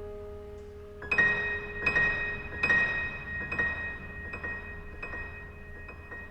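Piano interlude: a series of high, bell-like notes struck a little under a second apart, ringing over a held lower note that fades out partway through.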